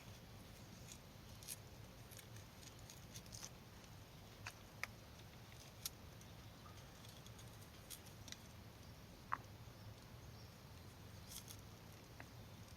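Near quiet with faint, irregular small clicks and ticks scattered throughout, the sharpest about nine seconds in.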